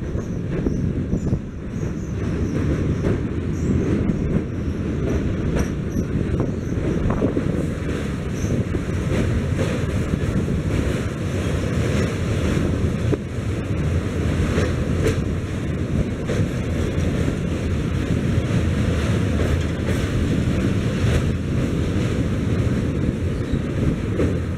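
Passenger train rolling slowly across a steel truss bridge: a steady low rumble of wheels on the rails, with scattered faint clicks and clanks.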